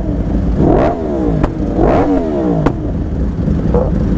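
Sport-bike engine revving up and dropping back, twice, over a steady rumble of riding noise.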